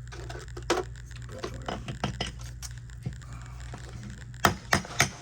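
Small metal clinks and clicks of a new bearing and starter-generator parts being handled, then near the end a hammer begins tapping in a steady rhythm, about four taps a second, driving the new bearing into the golf cart starter-generator.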